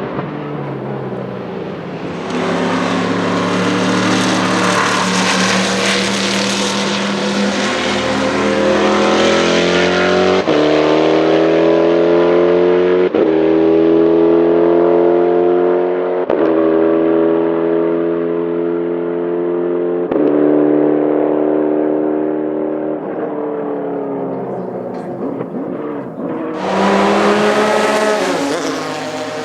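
Saleen S7-R GT1's 7.0-litre naturally aspirated V8 race engine passing close at speed, then accelerating away through four upshifts. Its pitch climbs in each gear and drops at each shift as it fades into the distance. Near the end another loud car passes close.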